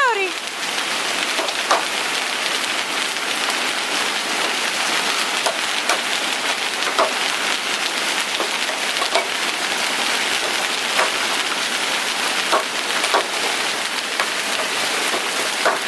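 Heavy rain pouring down in torrents, a steady dense hiss, with a dozen or so sharper taps of drops or small hailstones striking a surface scattered through it.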